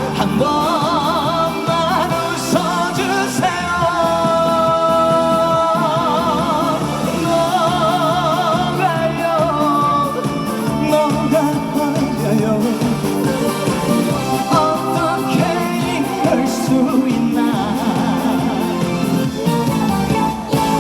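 Male trot singer performing live over a band backing track, his voice held in long notes with heavy vibrato.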